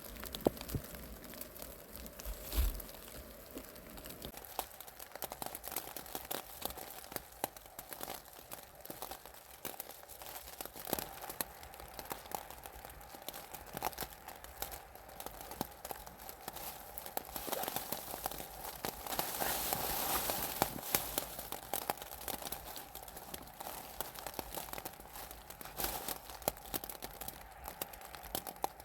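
Irregular rustling and crackling close to the microphone.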